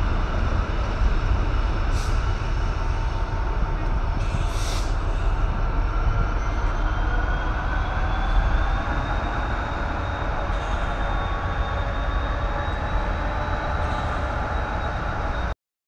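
Loaded freight wagons of a stone train rolling slowly past on the rails, a steady rumble with a thin high squeal that rises slightly in pitch and a few sharp clicks. The sound cuts off suddenly near the end.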